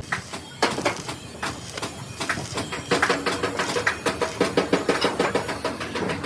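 A fast series of knocks, about five a second, denser and louder in the second half.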